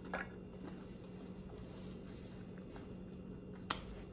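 Faint chewing of a mouthful of cheesy bread with the lips closed, over a steady low hum, with one sharp click near the end.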